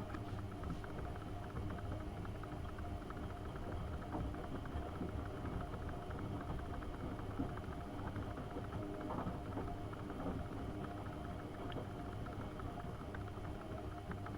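AEG Öko-Lavamat 72520 front-loading washing machine running a wash: its motor hums steadily as it turns the drum, with a constant rumble and many small clicks and knocks from the tumbling load.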